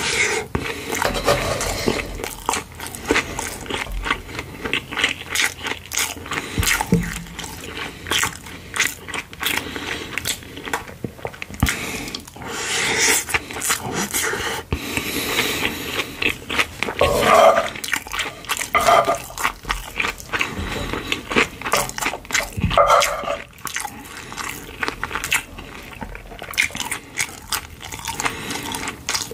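Close-up eating sounds: wet chewing and lip-smacking on mouthfuls of kimchi pork-belly fried rice, a steady run of small clicks and squelches. A wooden spoon scrapes and scoops rice off the stone-coated pan.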